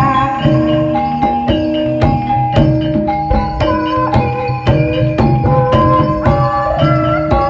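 Live ebeg (jaran kepang) accompaniment music: tuned struck percussion plays a repeating melody of short ringing notes over a steady beat of hand-drum strikes.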